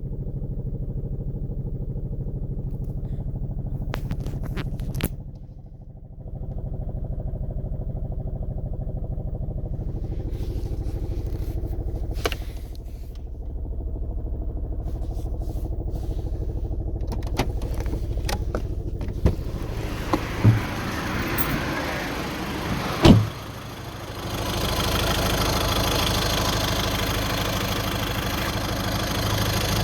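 A Seat Toledo's engine running steadily with a rattle, and several sharp knocks scattered through it, the loudest about 23 seconds in. The owner traced the rattle to a faulty engine mount.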